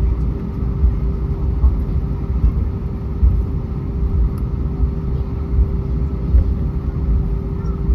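Cabin noise of an Airbus A320 on the ground before takeoff: a steady low rumble with a constant hum over it.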